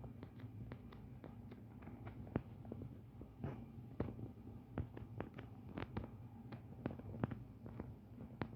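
Irregular light clicks and taps, several a second and uneven in strength, typical of typing on a computer keyboard and clicking a mouse, over a low steady hum.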